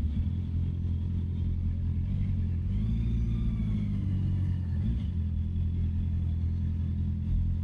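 Honda CB650R's inline-four engine running steadily at low revs. Its pitch rises about three seconds in and drops back near five seconds.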